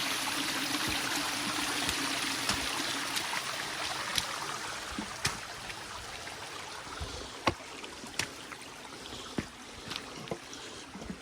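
Shallow creek water running over bedrock, a steady rush that slowly fades, with scattered sharp clicks and knocks at irregular intervals.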